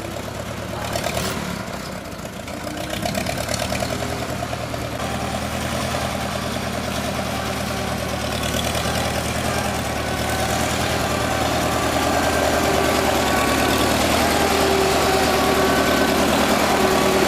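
Motor vehicle engine running steadily at low revs, growing slightly louder.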